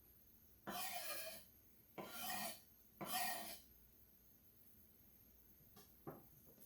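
Three rasping scrapes during kitchen prep, each about half a second long and about a second apart, followed by two light clicks near the end.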